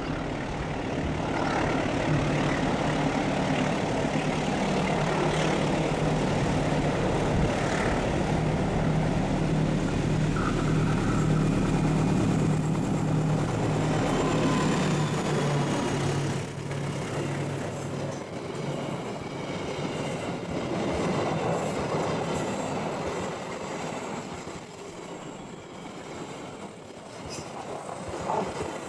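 Diesel-electric locomotive hauling a passenger train past: a steady low engine drone for about the first half. The drone fades as the coaches follow, leaving the rolling rush of wheels on rail with a faint wheel squeal.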